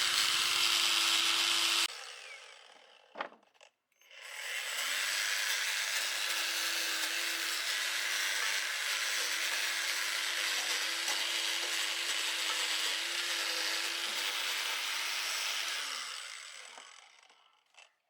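Handheld electric power tool running with a rough grinding hiss over a steady motor hum. The first run cuts off about two seconds in and a single click follows. The tool then spins up again, runs steadily for about eleven seconds, and winds down near the end.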